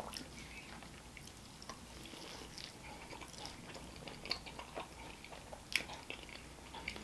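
Faint close-up chewing of a mouthful of Philly cheesesteak egg roll, with scattered small mouth clicks.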